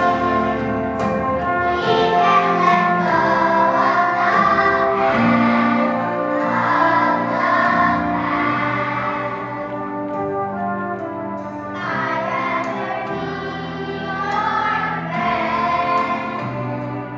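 A children's choir of first graders singing a song together.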